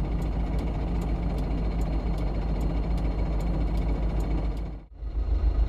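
GAZon Next truck's diesel engine running at low speed, heard inside the cab as a steady low rumble with faint ticks. It drops out abruptly for a moment near the end, then comes straight back.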